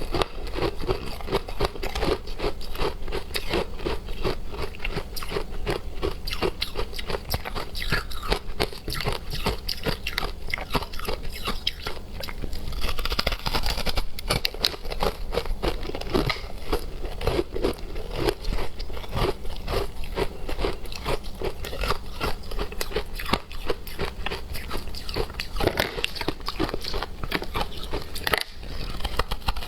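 A person biting and chewing hard frozen matcha ice, a dense run of crisp crunches close to the microphone.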